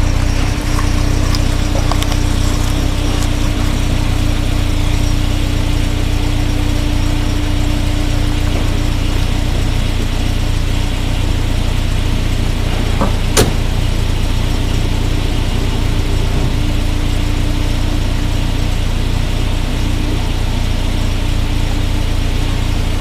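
Volvo 240's B230FX 2.3-litre four-cylinder engine, fitted with a higher-lift cam, idling steadily while warming up after a cold start. A single sharp click about halfway through.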